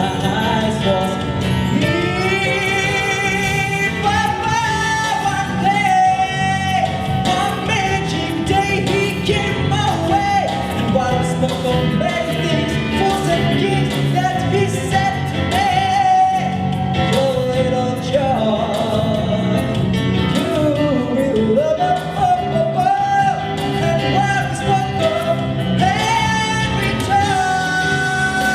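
A singer vocalising without words, with gliding, ornamented melodic runs over continuous instrumental accompaniment in a live song performance.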